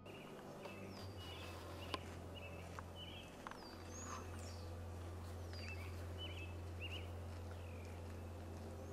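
Wild birds calling, with repeated short chirps and downward-slurred whistles, over a steady low hum.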